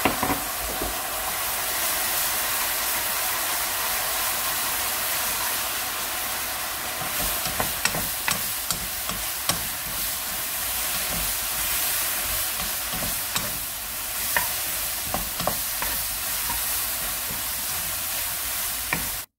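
Gochujang sauce and dried shrimp sizzling in a non-stick wok, a steady hiss. From about seven seconds in, a wooden spatula stirs and tosses the shrimp, with scrapes and clacks against the pan.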